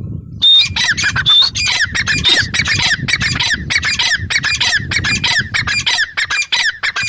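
Female grey francolin calling: a few clear high notes, then a fast run of harsh, repeated notes, about three a second.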